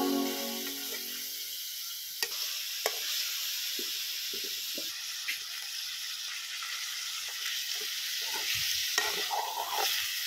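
Chicken pieces frying in a metal kadai with a steady sizzle. A steel spoon scrapes and clinks against the pan now and then as they are stirred.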